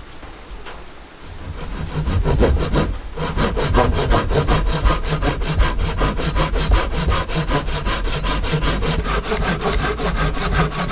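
Saw cutting through wood in fast, even strokes, starting up about a second and a half in and settling into a steady rhythm.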